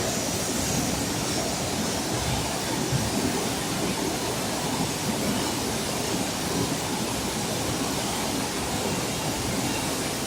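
Flash-flood water rushing down a wadi: a steady, unbroken roar of torrential water.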